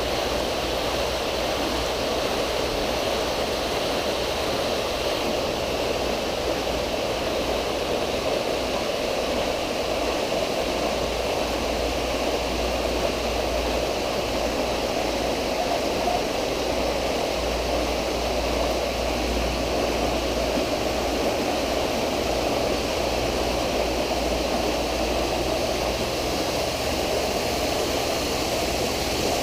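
Steady rush and splash of water pouring from a pool's water features (spillway bowls and a rain curtain) into the pool, with a low, uneven rumble underneath.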